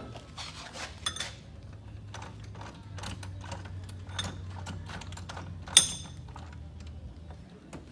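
Hand adjustment of a metal lathe's top slide: a run of small metal clicks and knocks, with one sharp ringing metal clink about six seconds in, over a steady low hum.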